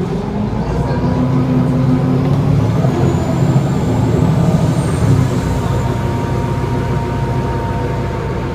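Volvo B7L single-deck bus's diesel engine running as the bus drives, grows louder through the middle, with a faint high whine rising above it.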